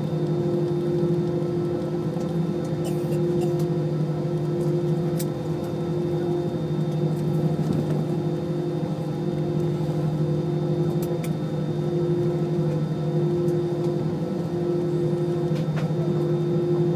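Airliner cabin noise: the steady hum of the Rolls-Royce jet engines heard from inside the cabin, holding one even pitch with no spool-up, with a few faint clicks.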